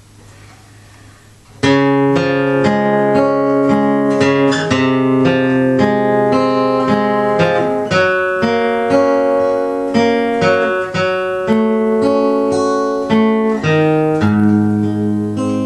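Acoustic guitar playing the introduction to a slow country ballad: chords strummed and picked in an even rhythm, starting about a second and a half in after a brief quiet.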